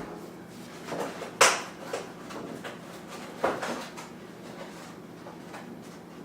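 A few sharp knocks and clunks of kitchen handling while another egg is being prepared, the loudest about a second and a half in and another a little past the middle.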